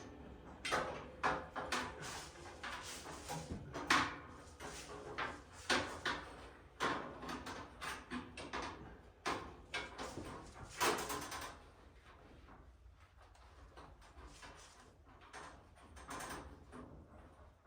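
Irregular knocks and clatter of things being handled and set down, many in quick succession for about twelve seconds, then only faint scattered taps.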